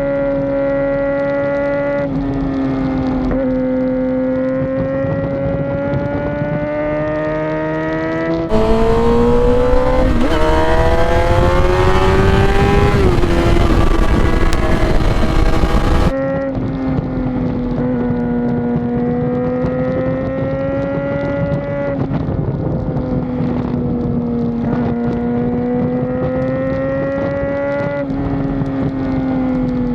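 Motorcycle engine running under way, its note rising and falling gently as the revs change. About eight seconds in, a louder stretch with a rushing noise starts abruptly, and the engine climbs in pitch through it. It cuts back to the steadier engine note about sixteen seconds in.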